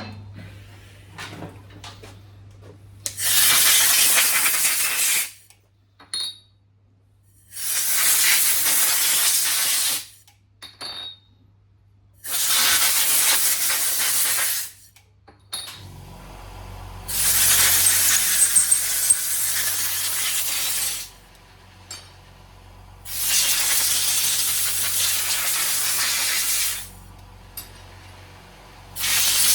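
Compressed-air blow gun blasting air through the ports and passages of a Yamaha YZF1000 Thunderace carburettor in five long hisses of two to four seconds each, with short pauses between. The hiss changes as the air meets a blocked or a clear passage.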